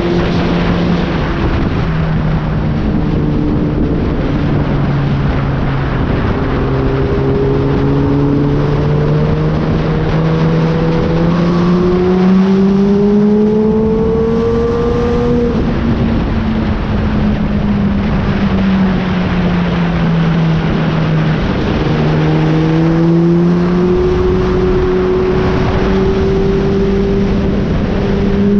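Kawasaki ZX-10R inline-four sportbike engine running under way, with wind and road rush. Its pitch climbs slowly, falls about halfway through, and rises again near the end.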